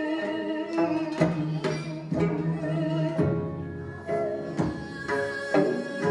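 Korean traditional ensemble music accompanying a hallyangmu dance: held, wavering melody lines from wind or bowed instruments over regular drum strokes, about two a second.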